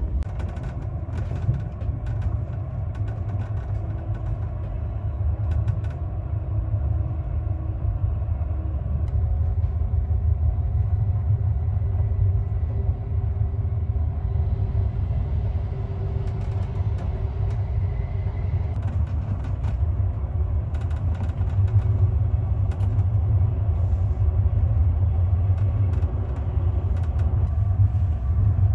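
Passenger train running along the track: a steady low rumble with scattered clicks and creaks.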